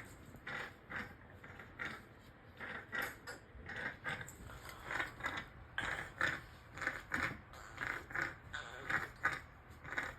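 A young child making short, repeated noises with his mouth, about two or three a second in an uneven string.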